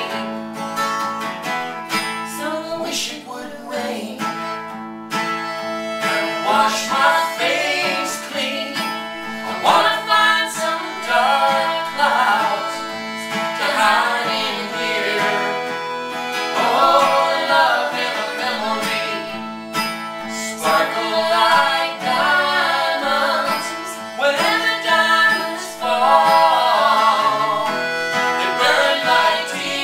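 Acoustic country-style music with guitar and other plucked strings playing an instrumental passage.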